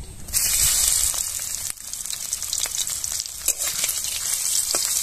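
Chopped prawns coated in turmeric and salt hit hot mustard oil in a wok and burst into a sizzle that starts suddenly about a third of a second in. The frying hiss goes on with scattered sharp crackles, while a metal spatula stirs the prawns.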